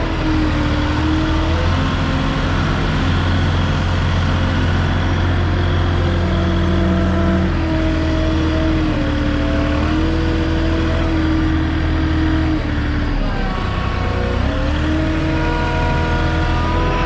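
Moffett truck-mounted forklift's engine running steadily under a heavy load while it drives, its pitch rising and falling slightly; it drops about thirteen seconds in and climbs back up.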